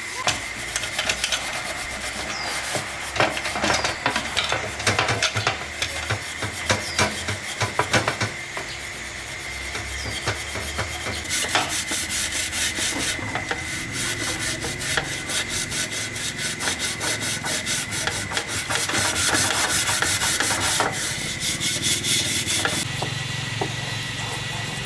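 Repeated abrasive rubbing and scraping strokes, as in hand sanding or filing down rusty motorcycle parts. The strokes come irregularly at first and turn into denser, more continuous scraping about halfway through, over a faint steady high whine.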